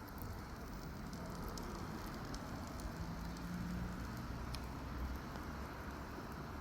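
Wood fire burning in a fireplace: a steady rushing flame noise with scattered small crackles and pops.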